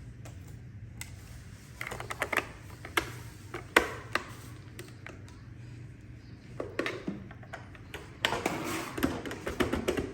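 Plastic clicks and taps from handling the parts of a robot vacuum, irregular and scattered. There is one sharp click a little under four seconds in, and a denser rattling clatter of plastic from about eight seconds on.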